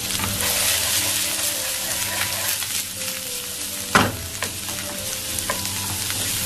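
Sliced shallots sizzling in hot coconut oil in a frying pan, stirred with a wooden spatula, with one louder knock about four seconds in.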